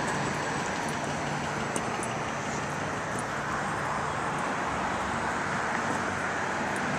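Steady street traffic noise, an even wash of sound with a faint low hum running under it.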